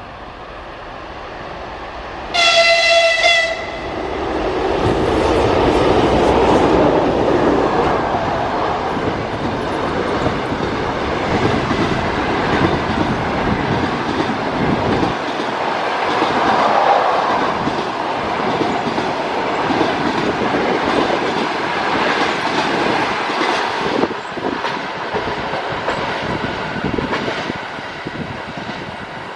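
EP2K electric locomotive sounds its horn once, a single tone about a second long, then it and its train of passenger coaches pass close by with a loud, steady rush of wheels on rails and occasional knocks. The noise eases off near the end as the last coach draws away.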